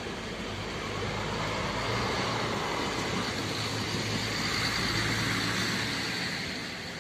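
A road vehicle driving past: engine and tyre noise that swells over a couple of seconds, peaks about halfway through, then fades.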